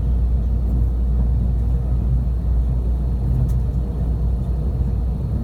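Steady low running rumble of a Tobu Spacia limited express electric train, heard from inside the passenger cabin while the train travels, with a faint click about three and a half seconds in.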